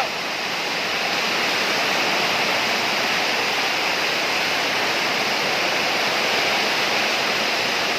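Storm with heavy rain and strong wind, a steady rushing hiss.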